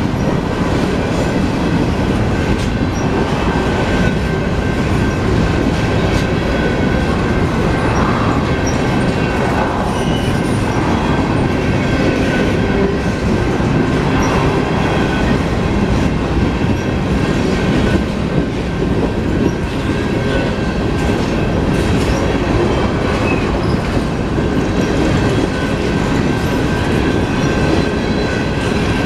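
Loaded hopper cars of a slow-moving Union Pacific freight train rolling past, a steady rumble and clatter of wheels over the rails.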